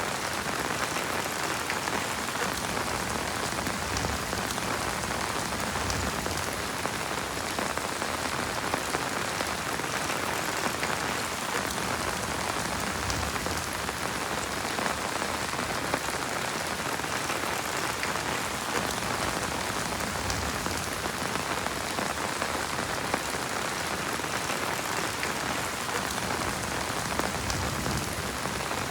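Heavy rain falling steadily: a dense, even hiss of countless drop impacts with no letup.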